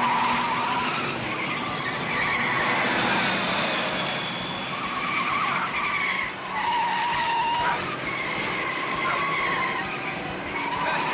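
Vehicle tyres squealing in several drawn-out, wavering squeals over steady engine and road noise during a car chase.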